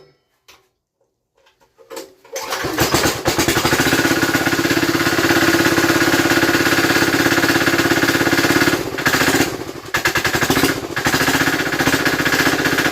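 Chinese diesel engine cold-starting at 27°F: after about two seconds of quiet it cranks and catches quickly, then runs with a fast, steady diesel knock. Its sound drops briefly a couple of times near the end.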